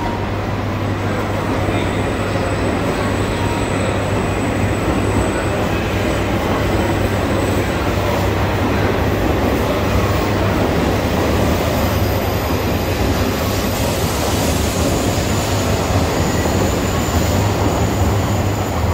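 E5-series Shinkansen pulling out of the station and gathering speed, its cars rolling past close by with a steady rush and low hum that grows slightly louder as the train speeds up.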